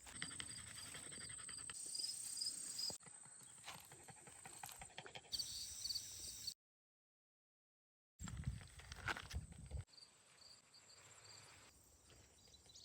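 Footsteps along an outdoor trail, with insects chirping in a repeating high rhythm. The sound breaks off at several cuts, with about a second and a half of dead silence in the middle.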